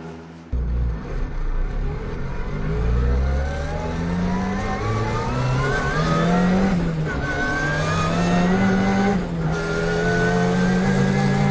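Ford Sierra RS Cosworth Group A race car's turbocharged four-cylinder engine accelerating hard, its pitch climbing steadily through the gears with brief upshift breaks about seven and nine seconds in.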